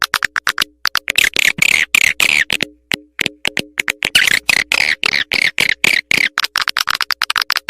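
Swiftlet lure call: a recording of edible-nest swiftlets' chirping and twittering, a fast, dense run of short clicks and falling chirps with brief gaps. This is the kind of call played from a bird house to draw swiftlets in to roost and nest.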